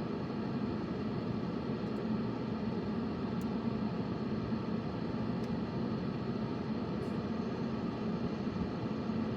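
Steady low rumble of a car driving, heard inside the cabin, with a few faint ticks.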